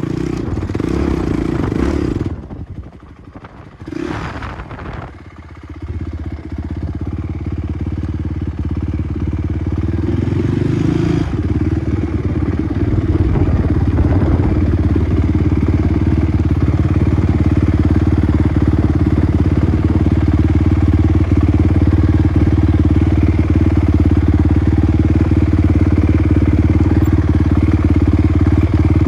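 Off-road motocross motorcycle engine running. It drops away for a few seconds early on, with one short blip of throttle, then builds back up and holds a steady, loud note for the second half.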